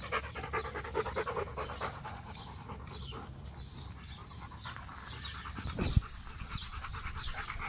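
A Rottweiler panting rapidly, about five breaths a second, out of breath from running after its ball. The panting fades somewhat after the first couple of seconds, and there is a brief thump about six seconds in.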